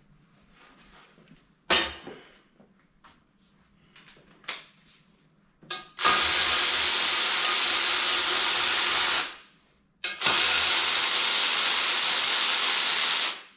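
A pressurised jet hissing loudly in two long bursts of about three seconds each, with a short pause between them. Before the bursts there is a sharp knock and a few light clicks.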